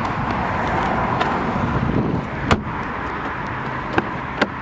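A few sharp clicks and a knock from handling a car's rear door and its fittings, over a steady background of outdoor traffic noise. The loudest click comes about halfway through.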